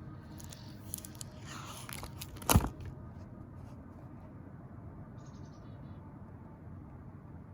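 Low, steady room noise with a few light clicks and one sharp click about two and a half seconds in.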